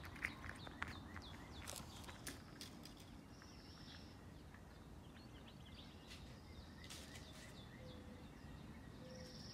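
Faint outdoor ambience with distant birds calling: many short, falling high chirps and a couple of brief high, buzzy trills, with a few soft clicks in the first two seconds.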